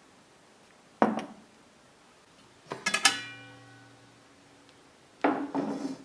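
Dishes and utensils being handled in a kitchen: a sharp knock, then a clatter of clinks with one ringing note that fades over about a second, then a brief scrape near the end.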